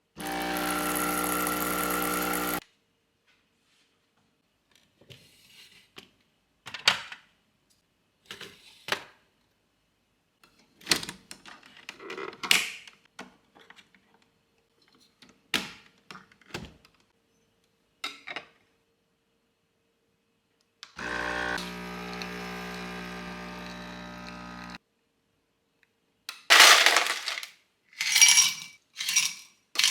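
Kitchen work sounds: an electric kitchen appliance runs with a steady hum twice, briefly at the start and for about four seconds later on. Between the two runs come scattered light knocks and clinks of utensils and dishes, and a burst of louder clattering near the end.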